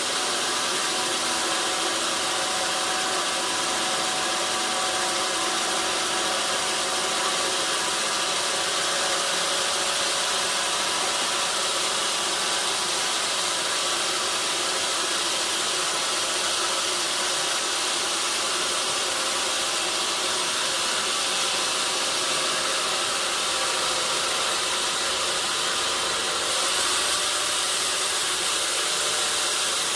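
Sawmill machinery running steadily, a continuous hissing mechanical noise with a faint hum underneath; the high hiss shifts slightly near the end.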